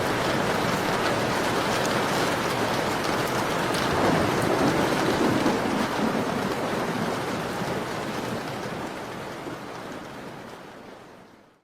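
Rain falling on a window: a steady patter with a few sharp ticks, swelling slightly about four seconds in, then fading out to silence over the last several seconds.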